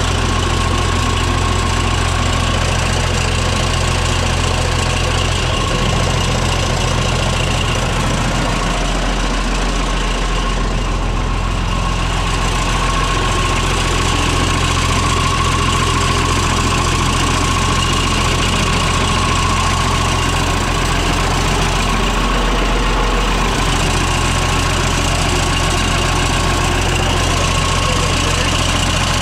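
Cockshutt 1850 tractor's Perkins diesel engine idling steadily. The low rumble dips briefly twice, about a third of the way in and again about three quarters through.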